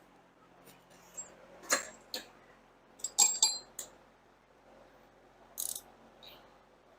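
Metal hand tools clinking and knocking in a series of irregular sharp clicks. A cluster about three seconds in rings briefly.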